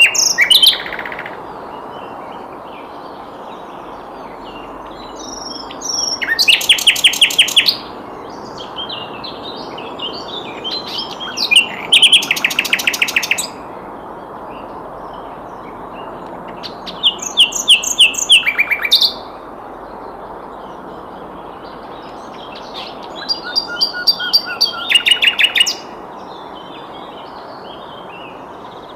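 Sikatan londo (flycatcher) singing: four loud phrases of quickly repeated high notes, a few seconds apart, with softer twittering notes between them over a steady background hiss.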